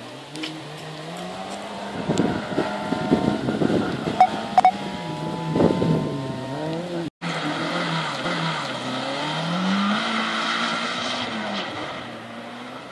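Rally car engine driven hard on a loose dirt track, revs rising and falling repeatedly as it accelerates and lifts, with rough bursts of tyre and gravel noise in the first half. The sound cuts out for an instant about seven seconds in.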